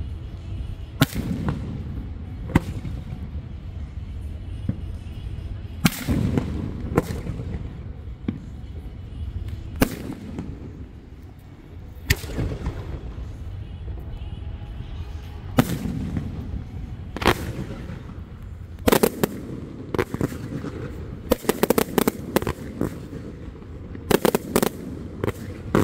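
Aerial firework shells bursting with sharp bangs, a few seconds apart at first. Over the last several seconds they come much faster, in a rapid volley of bangs and crackles.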